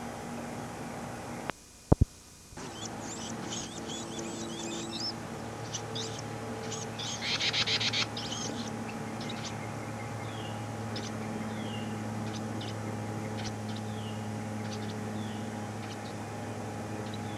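Small birds chirping, with a loud run of rapid high chirps about seven seconds in and scattered short, downward-sliding calls after it, over the steady hum and hiss of a VHS recording. About a second and a half in, the sound briefly drops out with a sharp click.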